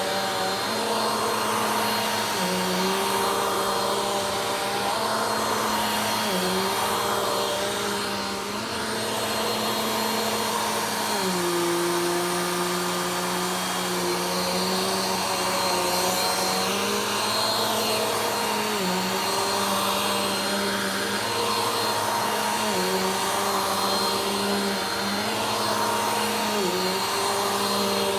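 Vacuum cleaner running steadily during slow vacuuming. The motor hum steps down in pitch and back up every few seconds, with a longer low stretch near the middle.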